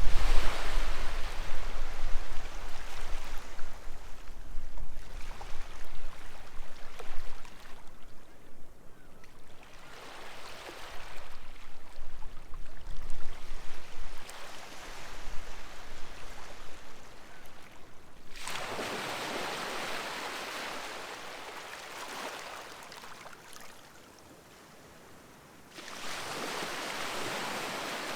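Small sea waves washing onto the beach, coming in surges of hiss a few seconds apart that swell and fade. A low wind rumble on the microphone fades out in the first few seconds, and the sound drops almost to nothing for about two seconds near the end before the wash resumes.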